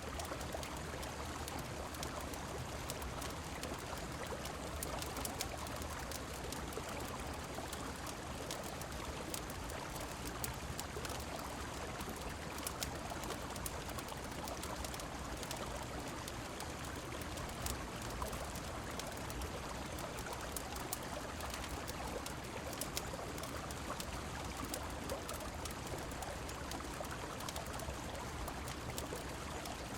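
Steady rush of a flowing river and falling rain, with frequent small sharp crackles of a wood fire scattered through it.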